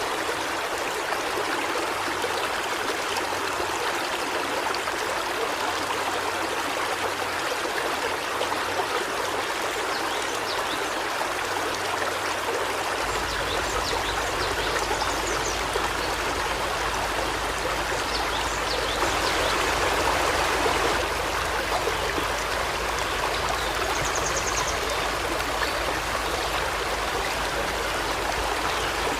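River water flowing steadily, with a few faint, short, high bird chirps over it.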